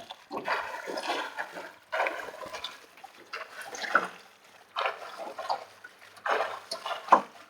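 Lake water splashing and sloshing in repeated surges about every second or so, from a swimmer's strokes while towing a small boat.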